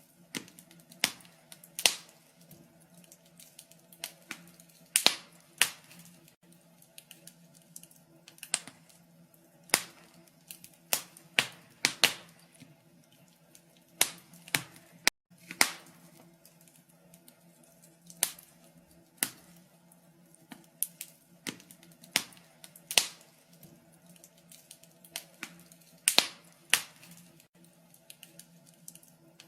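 Wood fire crackling: irregular sharp pops and snaps, several every few seconds, over a faint steady low hum.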